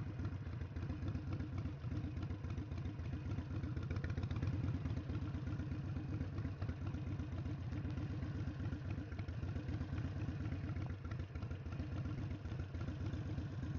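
Harley-Davidson Sportster 883's air-cooled V-twin engine running steadily at low revs, with a fast, even pulsing beat.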